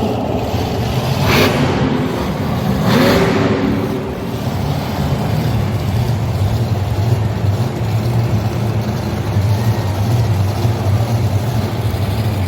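Motor vehicle engine running steadily at a low pitch, with two brief loud bursts of noise in the first few seconds.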